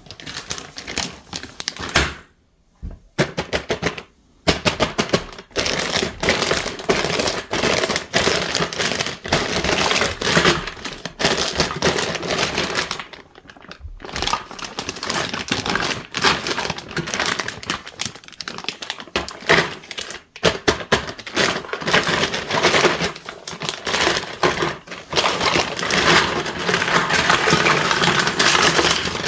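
Small plastic toy kitchen pieces handled and knocked together: dense, irregular clicking and clattering with a couple of brief pauses.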